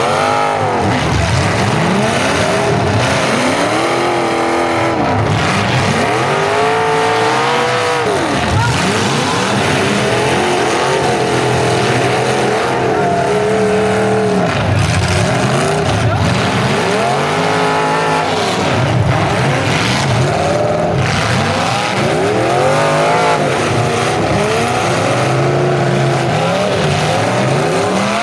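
Several full-size demolition derby cars' engines revving hard and falling back over and over, overlapping one another. A few brief sharp knocks stand out now and then.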